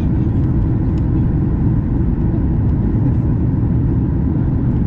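Boeing 737 MAX 8 cabin noise during descent: a steady low roar of airflow and the CFM LEAP-1B engines.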